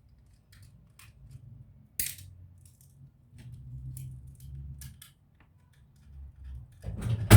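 Small hard clicks and taps from laptop parts, screws and tools being handled, with a sharper click about two seconds in and a loud knock near the end.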